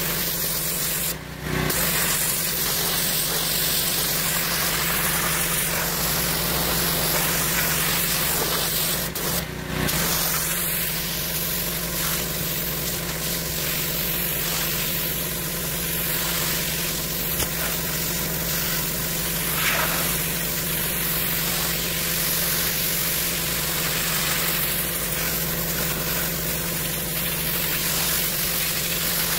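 Pressure washer running: a steady engine hum under the hiss of the water spray. The sound dips briefly twice, about a second in and again around nine seconds.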